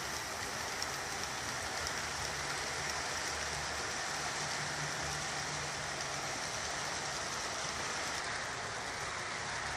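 Steady background hiss with a faint low hum underneath, and no distinct sound events.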